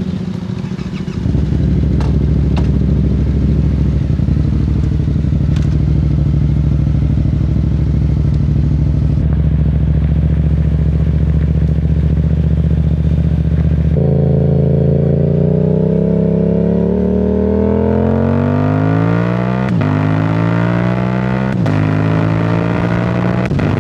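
2025 Yamaha R7's parallel-twin engine breathing through a Yoshimura AT2 full exhaust. It first runs at a steady engine speed. A little over halfway through, the rider pulls hard, and the pitch climbs with quick upshifts about two seconds apart.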